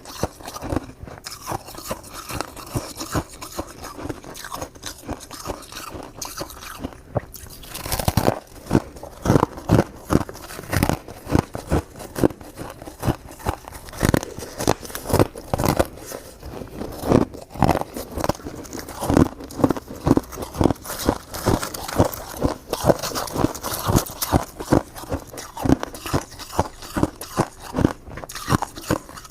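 Mouth crunching and chewing shaved ice in rapid, irregular crisp crunches, louder and denser from about eight seconds in.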